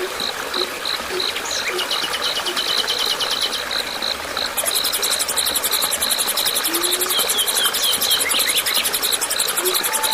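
Insect chorus: a cricket chirping steadily about three times a second, joined about four and a half seconds in by a loud, very high, rapid buzzing insect trill, with a few brief bird chirps.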